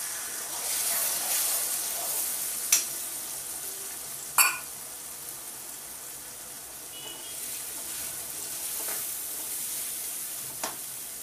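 Onion-and-spice masala sizzling in hot oil in an aluminium kadhai after a splash of water is added, the sizzle swelling about a second in and again near the end as it is stirred with a steel ladle. Two sharp knocks of the ladle against the pan, a couple of seconds apart.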